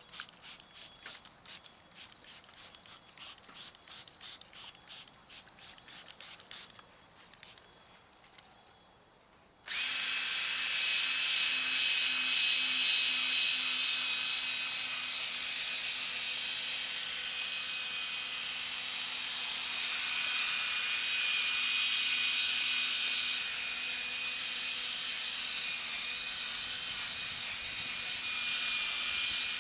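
A rapid run of short, even strokes, about three a second, for the first eight seconds. About ten seconds in, an electric drill starts suddenly and runs steadily with a whine, driving a 3M P3000 sanding disc over a wetted plastic headlight lens.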